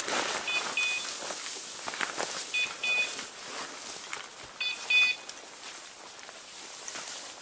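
Hunting dog's beeper collar sounding three quick double beeps about two seconds apart, the fast repeating pattern a beeper collar gives when the dog stands still on point. Footsteps rustle and crackle through brush around them.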